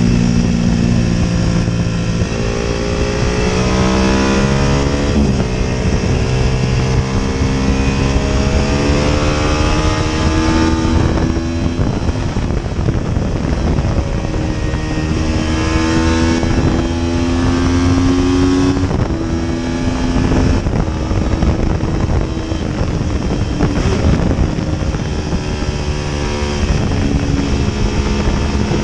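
Paton 500 GP racing motorcycle engine at race pace, heard onboard: the revs climb in rising sweeps, break off at each gear change and pick up again, easing off and back on through the corners. Wind rushes over the microphone throughout.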